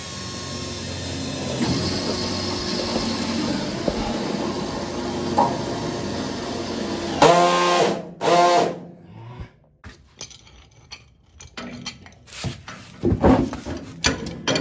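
A handheld power tool runs steadily for about seven seconds and then stops. Two short high-pitched sounds follow, then a few scattered knocks and clicks.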